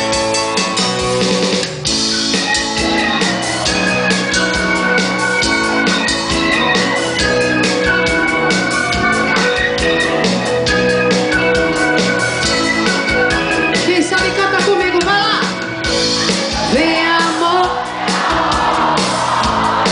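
Live band playing a rock song with a singer: drum kit keeping a steady beat under guitar and vocals.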